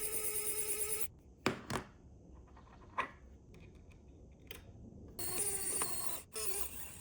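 A small electric motor whirring in two short runs, with a few sharp clicks between them.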